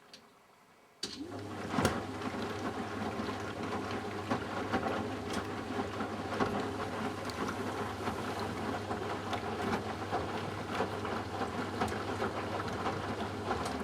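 Eudora Sparmeister 702 washing machine rinsing. After a pause, the drum motor starts suddenly about a second in with a brief rising whine, and the drum turns with a steady hum while water and wet laundry slosh and splash inside. It stops near the end.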